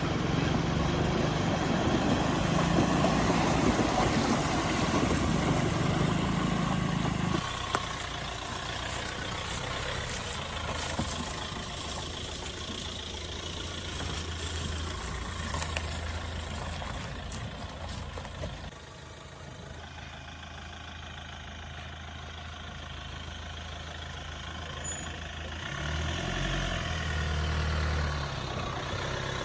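Mahindra Scorpio SUV engine running steadily, with its note shifting abruptly a couple of times. Near the end the revs rise and fall.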